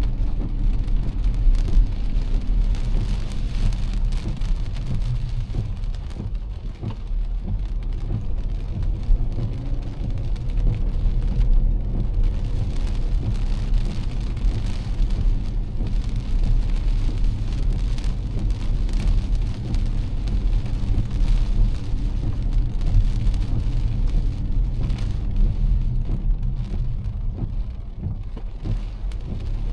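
Heavy rain falling on a moving car, with scattered sharp drop hits over the car's steady low road and engine rumble.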